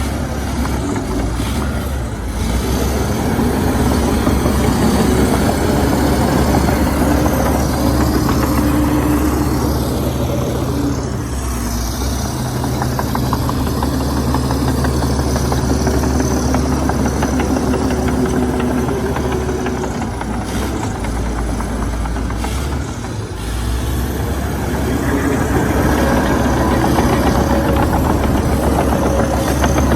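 Komatsu D61EX crawler bulldozer's diesel engine working continuously, its note swelling and easing several times as the load changes.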